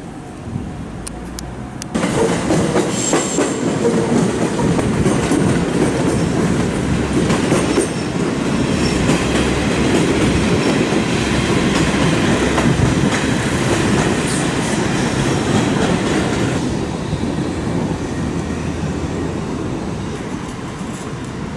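Train passing close by at slow speed. Its noise starts suddenly about two seconds in, stays loud until about sixteen seconds in, then drops away and fades.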